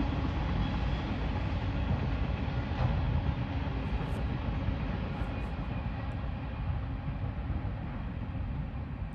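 Freight train cars rolling past: a steady rumble of steel wheels on the rails that slowly fades.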